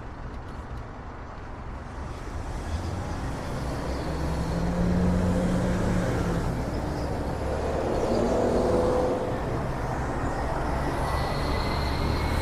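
Car driving along a road: engine hum and tyre noise, growing louder from about two seconds in as it picks up speed.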